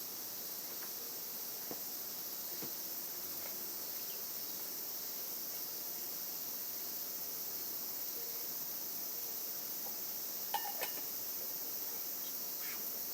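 Steady high-pitched chorus of insects, with a few light clicks about ten seconds in.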